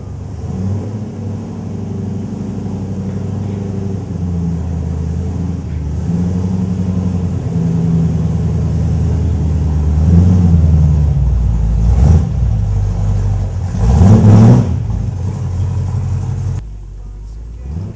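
Ford 302 V8 in a Ford GT40 replica running with a deep, wavering rumble and being blipped. A sharp rev about three-quarters of the way through is the loudest moment, and the level drops suddenly shortly before the end.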